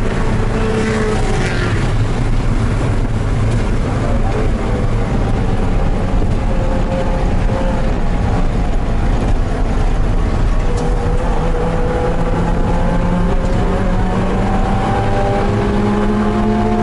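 Porsche 968's 3.0-litre four-cylinder engine, heard from inside the race car's cabin while lapping under racing load. Its note falls in the first couple of seconds, then climbs steadily through the second half as the car accelerates, over constant road and tyre noise.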